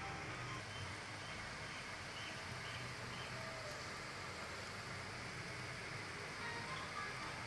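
Faint, steady sizzling hiss of diced purple yam (pendalam dumpa) frying in a little oil in a lidded pan on low flame.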